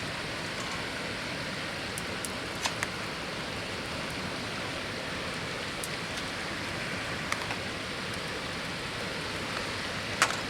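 River water flowing steadily, with a few sharp clicks over it, the loudest near the end.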